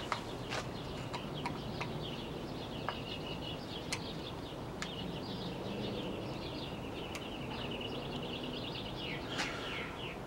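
Birds chirping outdoors: a run of quick repeated high chirps through the middle, a few short sharp chip notes, over a low steady hum.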